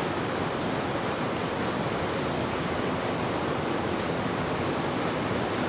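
Steady, dense hum of a large mass of bees buzzing at their hive, with no pauses.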